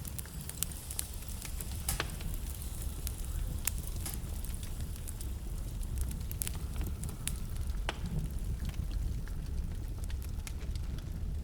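Wood fire burning in a fireplace: a steady low rumble of the flames under frequent sharp crackles and pops, with a few louder pops about 2, 4 and 8 seconds in.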